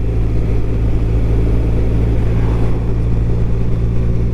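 BMW R1200RT's boxer-twin engine running at a steady cruise, with even wind and road noise over it.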